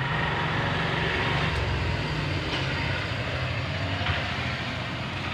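Steady low mechanical drone with an even hiss over it, like a motor running continuously.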